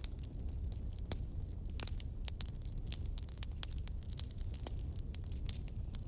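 Wood campfire burning: irregular sharp crackles and pops, several a second, over a low steady rumble.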